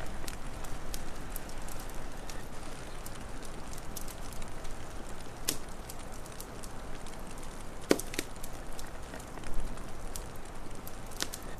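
Wood fire crackling: scattered sharp pops over a steady hiss, with the loudest pop about eight seconds in.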